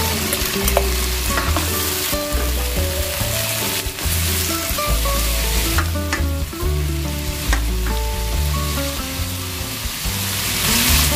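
Shrimp and broccoli frying in butter in a pan: a steady sizzle, with a few clicks from stirring. Background music with a bass line plays under it.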